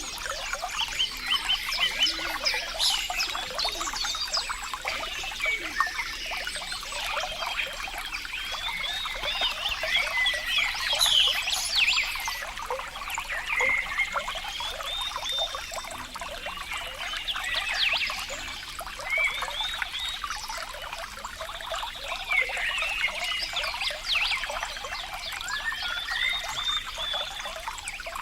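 Running water trickling and bubbling, a dense, irregular babble of small splashes that never stops.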